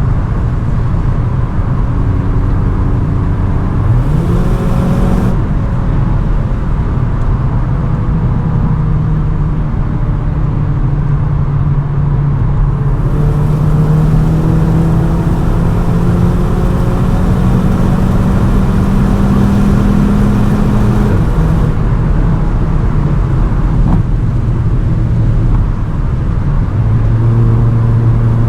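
Cupra Ateca's turbocharged 2.0-litre four-cylinder accelerating hard at high speed with its stock exhaust, over steady wind and tyre noise. The engine note jumps up quickly about four seconds in and then climbs slowly for a long stretch. About three-quarters of the way through it drops sharply, as at a gear change.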